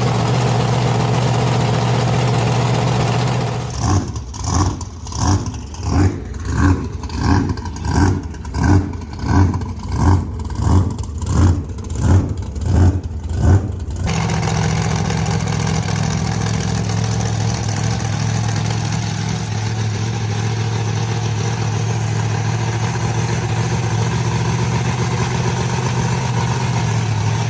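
Monster truck engine running steadily, then revved in a regular series of throttle blips, about one and a half a second for some ten seconds, before settling back into a steady run.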